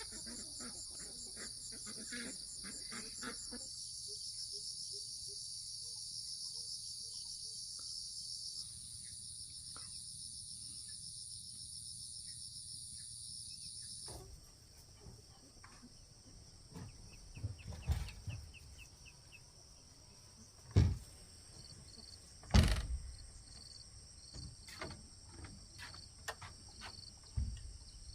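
Steady, high-pitched chorus of insects in pulsing trills, which changes character abruptly about halfway through. Over the second half come several sharp knocks, two of them loud.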